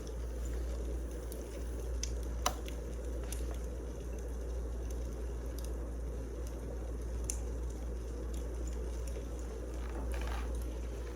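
Wood fire burning: a steady low rumble with scattered crackles and pops, the sharpest pop about two and a half seconds in.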